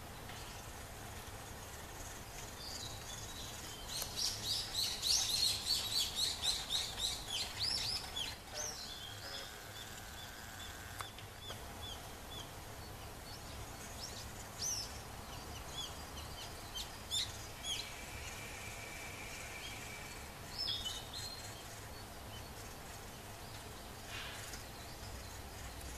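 Wild birds calling over a steady outdoor background: a quick run of loud, high chirps about three a second begins a few seconds in and lasts about four seconds, followed by scattered single calls.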